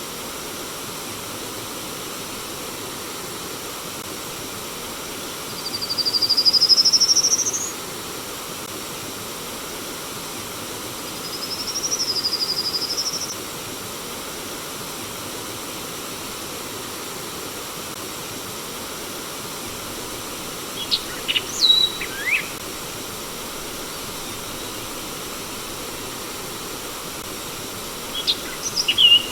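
Steady rush of flowing stream water with a bird calling over it: two long whistles rising in pitch, about six and twelve seconds in, then clusters of short chirps about twenty-one seconds in and again near the end.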